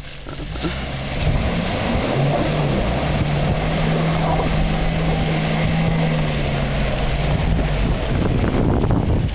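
Suzuki off-roader's engine working hard under load as it drives through a muddy pit. The note builds over the first second, then holds steady under a broad rushing noise.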